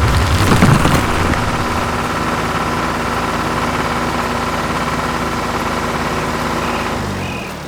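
Combine harvester's engine idling steadily, with a louder, rougher stretch about half a second in. Near the end it runs down and stops.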